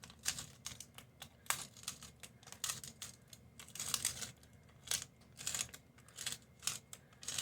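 Salt and pepper being dispensed onto raw chicken pieces: a quiet, irregular series of short, crisp, scratchy strokes, about two or three a second.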